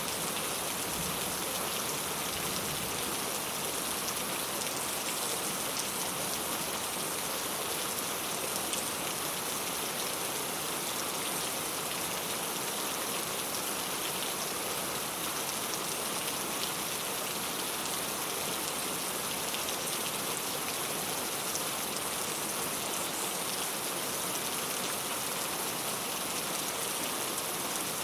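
Steady rain falling on a clay-tile roof: an even hiss of rain with many small drop ticks, holding constant throughout.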